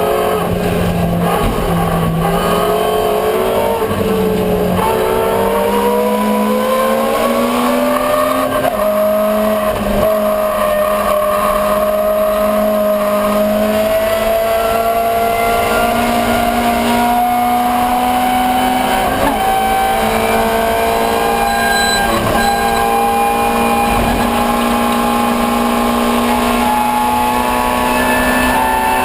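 Escort 1300GT's 1300cc four-cylinder racing engine running at high revs. The pitch jumps up and down a few times in the first eight seconds, as if through gear changes, then climbs slowly and steadily for the remaining twenty seconds or so.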